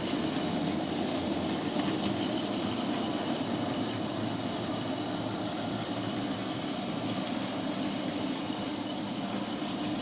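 N gauge model 9F locomotive running at speed along the track: a steady running noise of its motor and wheels on the rails.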